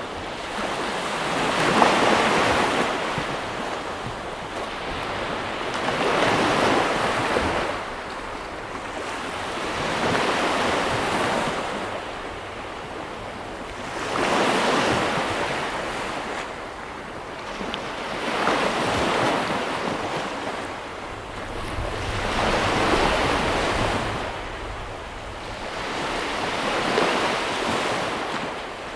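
Ocean waves breaking and washing on the shore, a surge every four seconds or so, with some wind on the microphone.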